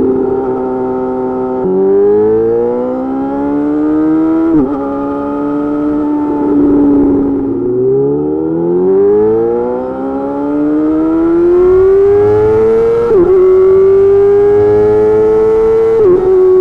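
Yamaha YZF-R6's inline-four engine through an M4 GP slip-on exhaust, accelerating through the gears: the pitch climbs steadily, then drops sharply at each upshift, four times. About halfway through it holds a steady pitch for a couple of seconds, then dips and rises in one long pull.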